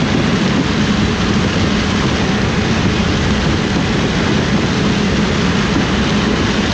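Heavy harvest machinery running steadily: an engine's even drone under a constant rushing mechanical noise, with no change in speed or load.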